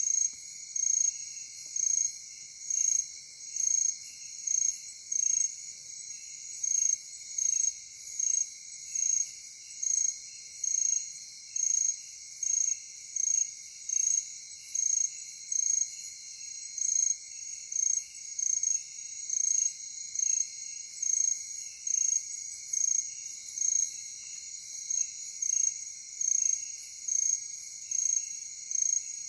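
Night insect chorus: a steady high-pitched trill underneath, with a louder high chirp repeating evenly about once a second.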